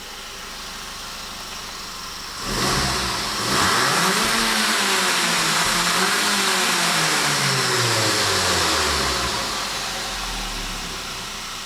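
Audi A3 1.8 TFSI turbocharged four-cylinder petrol engine idling, then revved up and down several times while stationary before settling back to idle near the end.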